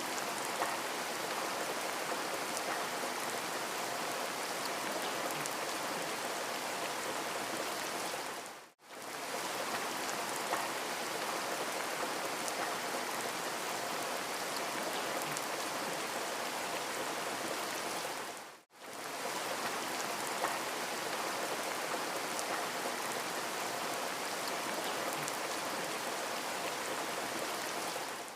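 Steady rain hiss speckled with small drop ticks. It fades out to silence for a moment about every ten seconds, twice here, and comes straight back.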